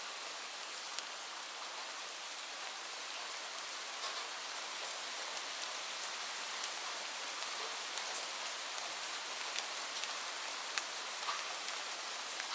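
Steady rain falling, a continuous hiss with frequent sharp individual drops ticking on a hard surface.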